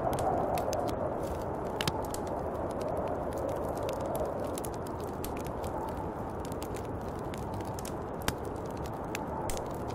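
Snowstorm wind blowing steadily, swelling and easing in slow gusts, with scattered light clicks and ticks over it, the sharpest about two seconds in and just after eight seconds.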